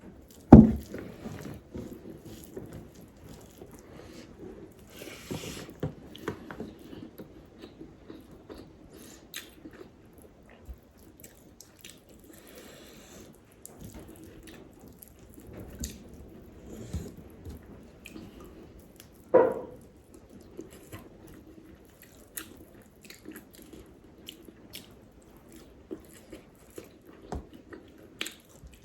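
Close-miked eating: mouth sounds of chewing, with small wet clicks and crunches, and two louder sudden knocks, one near the start and one about two-thirds of the way through.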